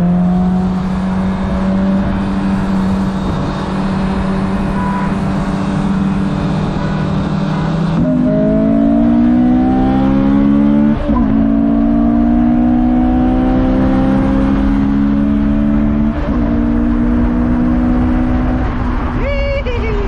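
Car engine cruising at a steady pitch, then accelerating hard from about eight seconds in, its pitch climbing through the gears with upshifts about three and eight seconds later. It backs off near the end, with a brief wavering whistle as the throttle closes.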